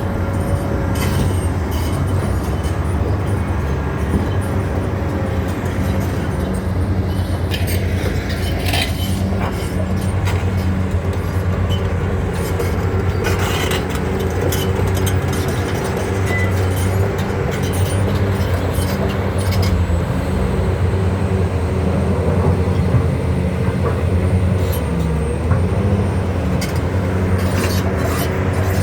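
Heavy diesel engine of a Hitachi 870 excavator running steadily under work, with scattered clanks and knocks throughout.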